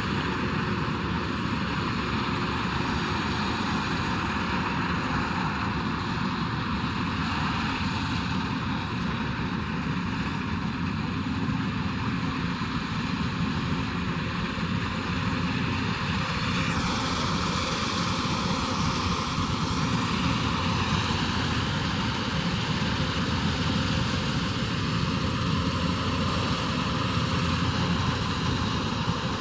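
Kubota DC108X combine harvester running steadily while harvesting rice: a continuous drone of engine and threshing machinery. A little past halfway the sound turns brighter and hissier.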